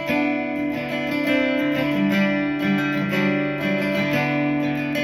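Acoustic guitar strummed with a pick, playing the chord intro to a song.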